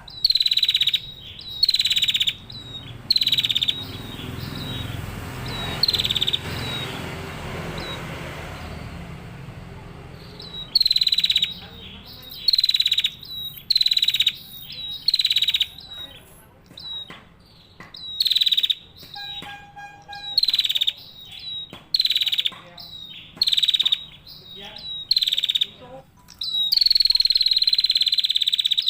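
Female prenjak (prinia) calling: loud, sharp chirps repeated about once a second in runs with short pauses, ending in a longer unbroken call near the end. A rushing background noise rises and fades in the first third.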